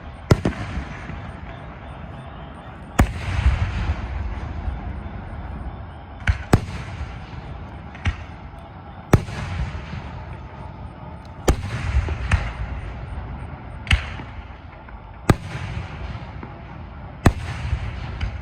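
Aerial fireworks going off: about a dozen sharp bangs, irregularly spaced one to three seconds apart and sometimes in quick pairs, the bigger ones trailed by a rumbling echo.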